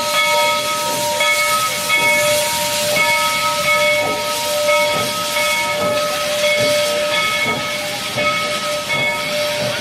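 Steam locomotive hissing steam steadily, with several ringing tones held over the hiss, some of them pulsing on and off at a regular pace.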